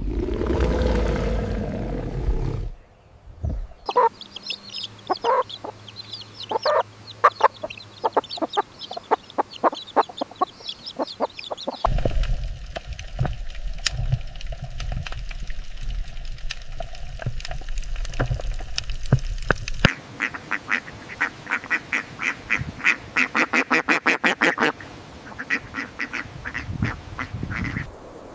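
Ducks and other poultry calling in quick runs of short, repeated calls, broken into several separate stretches.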